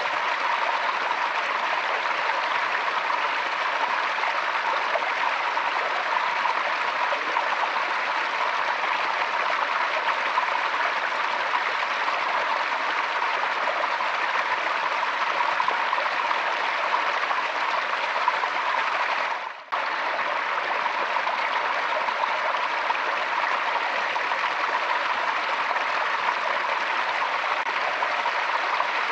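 Forest stream flowing, a steady rush of running water, with a brief sudden dip in level about two-thirds of the way through.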